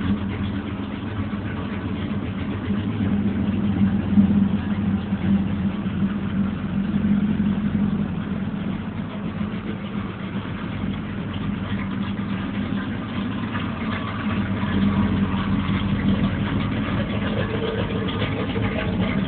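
Chevy 350 V8 with an aftermarket cam idling in an old truck, a steady, uneven-textured running sound with a slight swell near the end.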